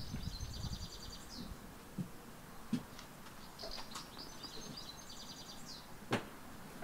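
A songbird sings the same short, fast trilled phrase twice, once near the start and again in the middle. Three sharp knocks stand out between the phrases, the last and loudest near the end.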